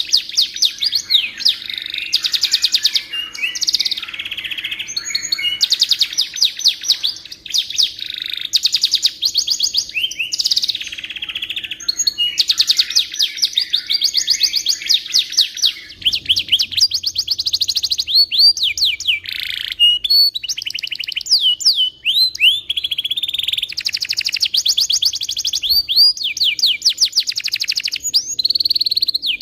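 Domestic canary singing a long, unbroken song of rapid trills and fast repeated notes, switching from one trill to the next every second or two.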